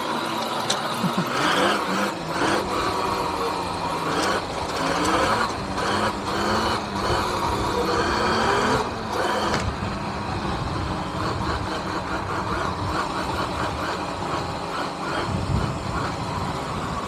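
Riding noise from an electric dirt bike: wind rushing over the camera microphone, with a motor whine that rises and falls in pitch over the first half as the bike speeds up and slows down.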